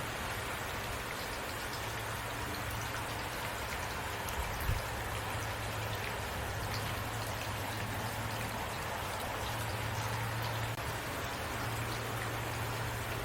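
Heavy rain falling steadily, a dense even hiss of drops with a low steady rumble beneath. A single dull thump stands out a little under five seconds in.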